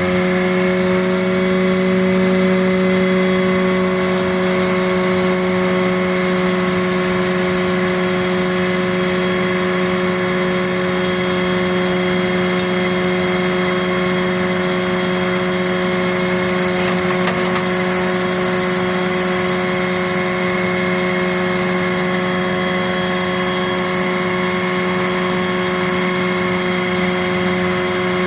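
An engine running steadily at one constant speed, a continuous drone that neither revs up nor dies down.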